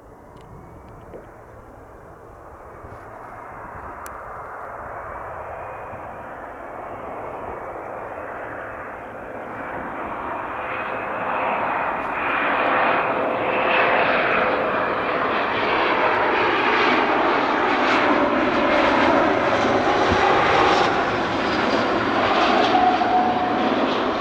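Dassault Falcon 7X three-engine business jet on its landing approach, its turbofans' whine growing steadily louder as it comes closer.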